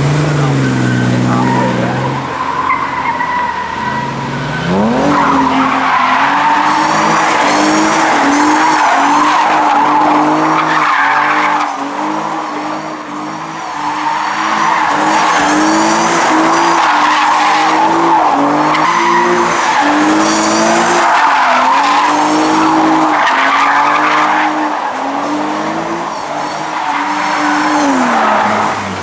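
A car spinning its tyres in a burnout at a street meet: the engine revs up, then is held high with the revs bobbing up and down, over continuous tyre squeal.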